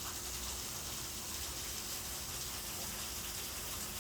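Waterfall with a steady rush and splash of falling water.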